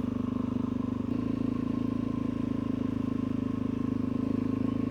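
Suzuki DR-Z400E's single-cylinder four-stroke engine running steadily while the bike is ridden, its note shifting slightly about a second in.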